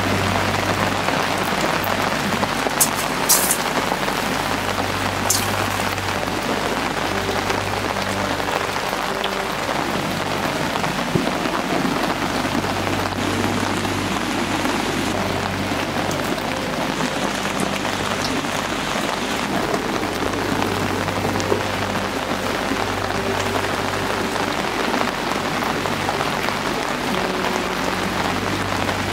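Steady rain falling, with a few sharper drop taps about three and five seconds in.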